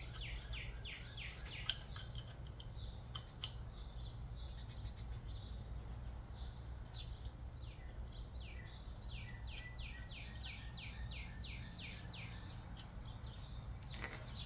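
A bird singing two runs of quick down-slurred whistled notes, about four a second, the first at the start and the second about halfway through, over a steady low hum, with a few faint clicks.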